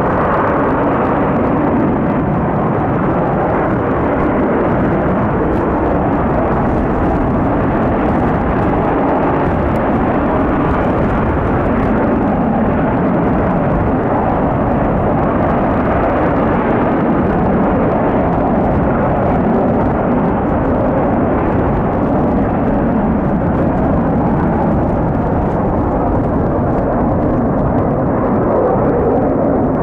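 Kawasaki T-4 jets of the Blue Impulse team flying overhead, a steady jet roar with a slow rise and fall of pitch as the aircraft pass, mixed with strong wind rumbling on the microphone.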